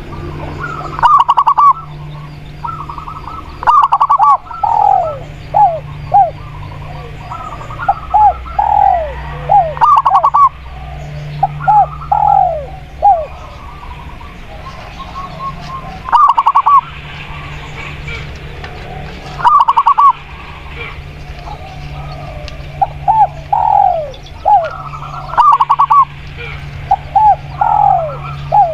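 Spotted dove and zebra dove cooing, with phrases of quick pulsed notes and short falling coos coming every few seconds over a steady low hum.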